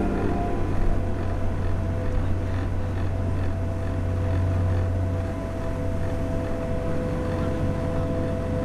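Steady low engine drone with a faint steady whine above it.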